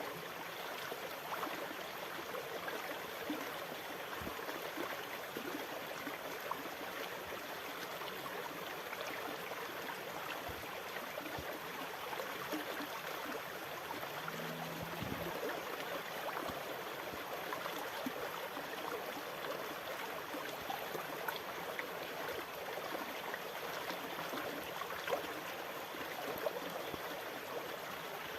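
Steady sound of moving water, an even rushing with fine trickling and gurgling detail and no rise and fall of breaking waves.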